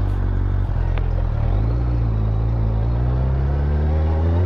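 Motorcycle engine running under the rider, easing off briefly about a second and a half in, then pulling with its pitch rising steadily as it accelerates.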